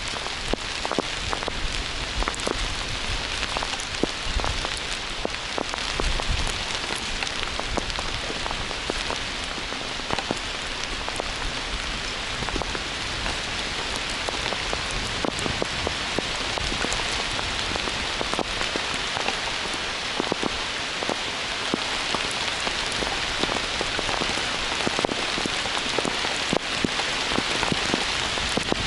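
Heavy rain falling steadily, a dense hiss with many sharp ticks of drops striking close by.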